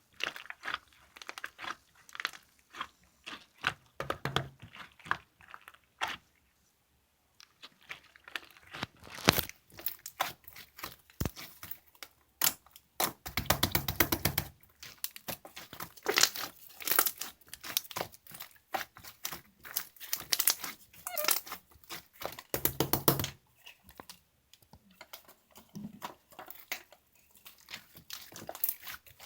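Clear slime mixed with small round clay beads being squished, pressed and stretched by hand, giving irregular crackling clicks and squishes. Denser runs of crackling come about halfway through and again about three-quarters of the way in, with a brief pause early on.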